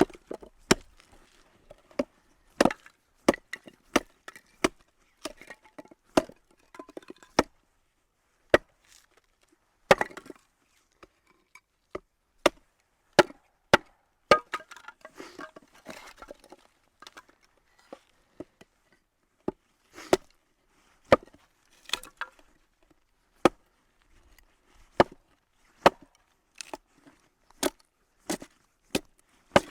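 Dry dead wood cracking and snapping: a long string of sharp, irregular cracks, about one or two a second, with a busier patch of small crackles midway.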